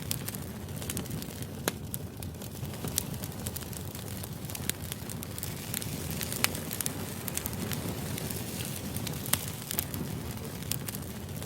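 Steady low rushing background noise with irregular sharp crackles and clicks scattered through it.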